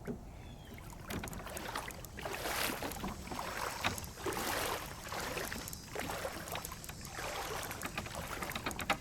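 Legs wading through calf-deep floodwater, the water sloshing and swishing with each step about once a second.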